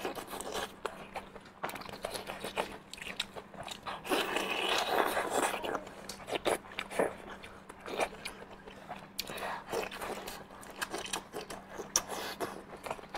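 Close-miked eating sounds: biting into and chewing a glazed braised sausage, with many short wet clicks and smacks. A louder, denser stretch of chewing noise comes about four seconds in and lasts a couple of seconds.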